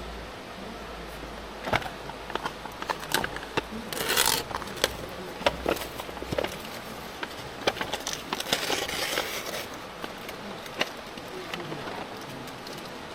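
Irregular clicks and light knocks, with two short stretches of rustling or scraping: about four seconds in and again around eight to nine seconds.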